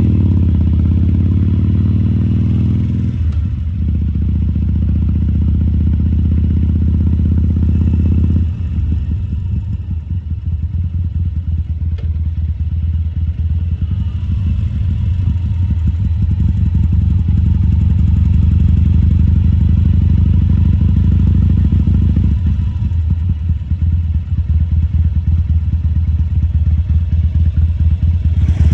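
2014 Harley-Davidson Sportster 1200 Custom's air-cooled 1200 cc Evolution V-twin running at low riding speed. It eases off and picks up again several times, dropping most about eight seconds in and building back up from about fourteen seconds.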